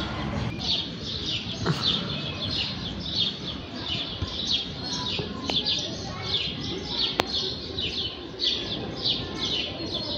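A group of house sparrows chirping: many short, overlapping chirps, several a second, with no break. A single sharp click about seven seconds in.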